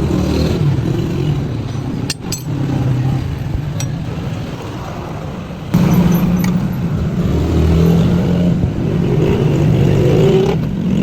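Motorcycle engine running steadily, getting louder about six seconds in, with a few sharp metallic clinks from tools or parts.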